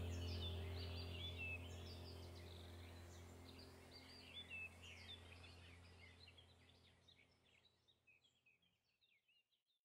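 Birds chirping in quick, short calls over a steady low hum, the whole fading out to silence near the end.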